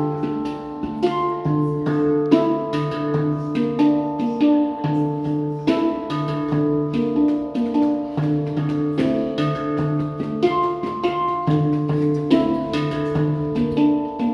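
Handpan played with the fingers: a melody of struck, ringing bell-like notes over a recurring low note, each note sustaining as the next is struck.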